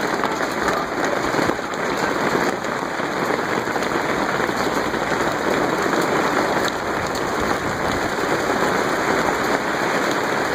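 Storm downpour falling hard, a dense, steady patter with faint individual impacts.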